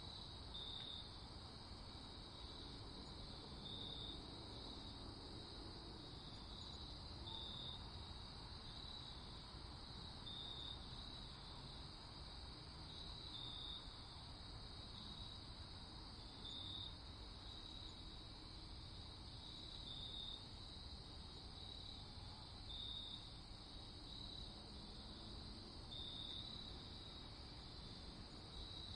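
Crickets chirping at night, faint: a steady high trill with short separate chirps every one to three seconds, over a low rumbling background.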